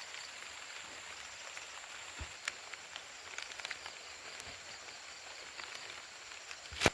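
Steady rain falling, an even hiss with scattered drops ticking on surfaces. A single sharp knock near the end.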